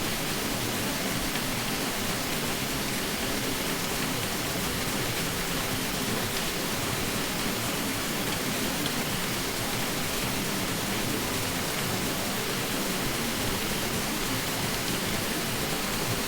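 Steady ceiling fan drone: an even, unchanging whoosh of noise with no distinct hum tone or blade rhythm.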